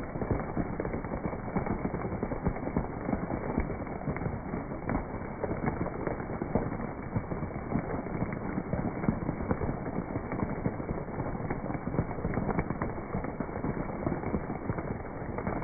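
Steady rain, a dense patter of drops striking leaves and other surfaces.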